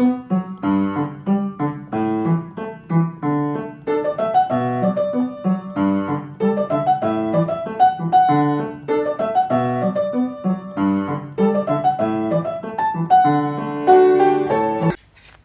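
Piano music: a steady stream of struck notes, with a melody over lower chords.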